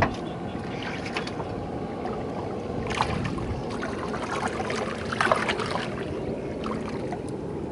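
Fiat DT 45-66 tractor's three-cylinder Iveco diesel engine running steadily, with several short metallic clanks at intervals over it.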